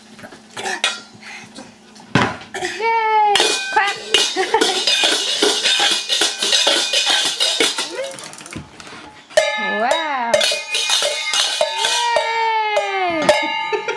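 A toddler making high, sliding squeals and cries, several times, over metal kitchen utensils clattering and knocking.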